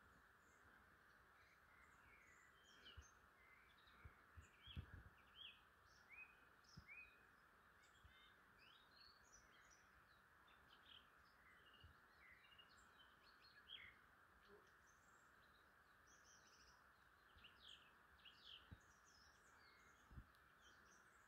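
Faint wild songbirds calling, many short chirping notes scattered throughout, over a steady hiss. A few soft low thumps, the strongest about five seconds in.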